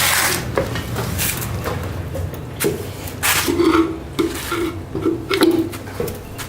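Scattered knocks and scrapes of things being handled, with the motorcycle's engine not yet running.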